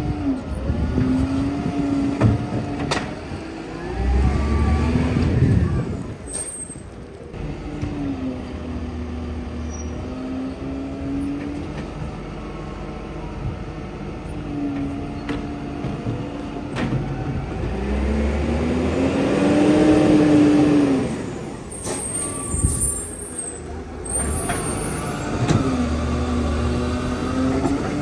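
Garbage truck's diesel engine running, its pitch rising and falling several times as it revs up and settles back, loudest about two-thirds of the way through, with short air-brake hisses.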